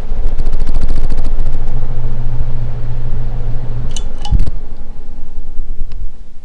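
Classic Fan 52-inch ceiling fan running, a loud low rumble of air buffeting the microphone with a steady motor hum. The hum stops about four seconds in, with a few clicks and a thump.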